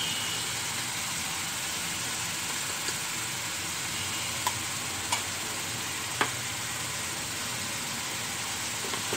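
Ridge gourd pieces sizzling steadily in hot oil in a pan, with a few light clicks near the middle.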